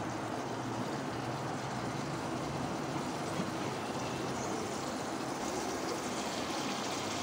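Marinated chicken pieces sizzling in hot oil in a cooking pot: a steady, even hiss with no clinks or stirring.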